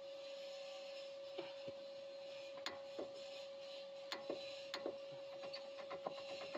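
Faint, scattered metallic clicks and knocks of a wrench being worked on front suspension bolts, with a quicker run of ratchet clicks near the end, over a steady hum.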